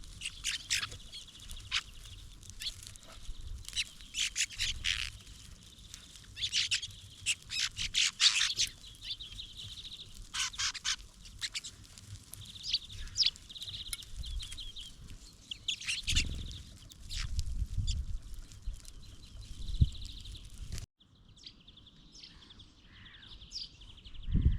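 Small songbirds calling around a feeder: many short, sharp chirps and a rapid trill repeated every few seconds. Low thumps come in about two-thirds of the way through. Near the end the sound cuts to quieter, softer birdsong.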